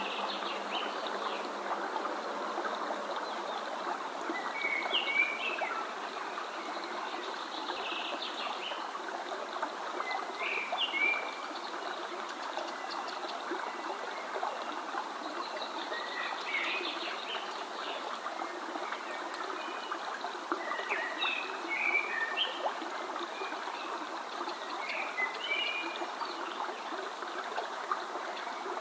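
A stream of water running steadily, with a songbird singing short chirping phrases every few seconds over it.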